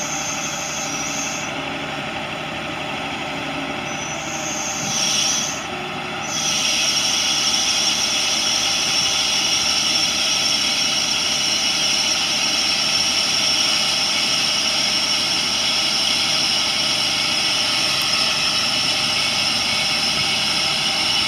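International DT466 turbo diesel running, with a high hydraulic whine from the crane's PTO-driven pump as the boom is worked. The whine rises about five seconds in, then holds louder and steadier.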